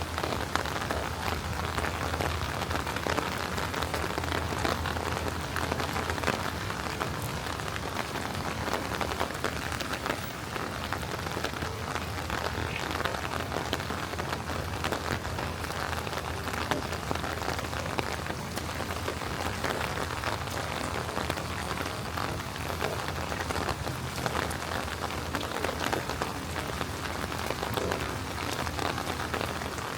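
Steady rain falling on hard city surfaces, a dense patter of many small drops, over a steady low rumble.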